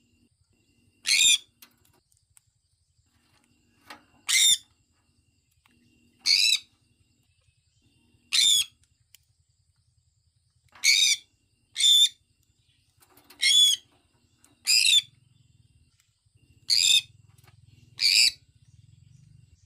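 Sun conure chirping: about ten short, high-pitched calls, one every second or two.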